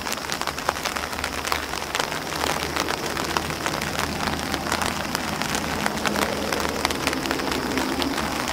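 Steady rain pattering on an umbrella and on grass leaves: a dense wash of many small, separate drop impacts.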